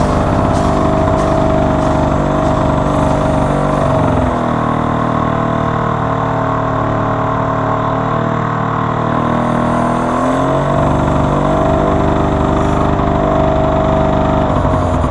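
VéloSoleX 330's small two-stroke engine running steadily, slowing down about four seconds in and speeding back up near eleven seconds.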